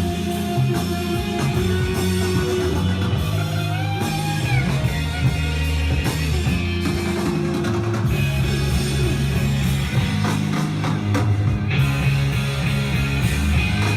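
Rock music with electric guitar and drum kit, loud and continuous, starting abruptly.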